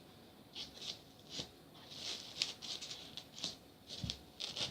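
Small polystyrene foam bricks being shifted and rubbed against a foam board: light, scattered scratchy rustles.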